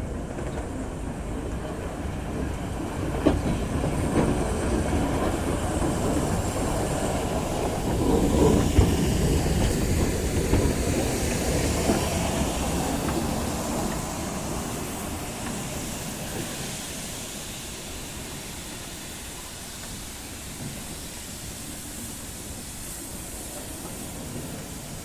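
Train running on the rails: a rumble with the clickety-clack of wheels over rail joints. It grows loudest about eight to ten seconds in, then slowly fades away.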